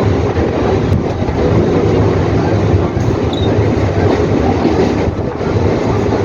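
Mumbai suburban local train, an electric multiple unit, running along the line with a steady, loud rumble of wheels on the rails.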